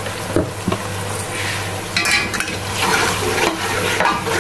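Chopped onion, tomato and green chilli masala frying in oil in an aluminium pot, with a steady sizzle, while a wooden spoon stirs it and scrapes against the pot in irregular strokes, more of them from about halfway through.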